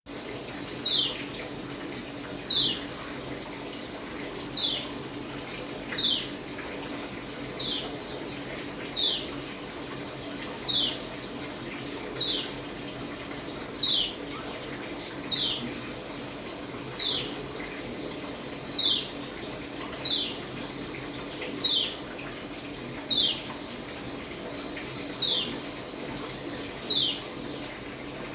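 Pleci (white-eye) calling in a regular series of single short chirps, each sliding down in pitch, about one every second and a half.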